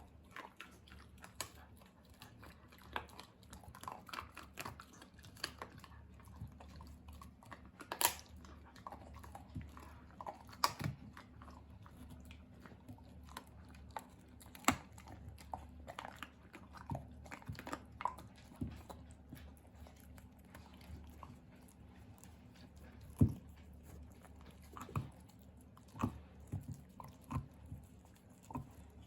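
Kai Ken dog gnawing and crunching a bear bone: irregular grinding clicks and sharp cracks, with a few louder cracks scattered through.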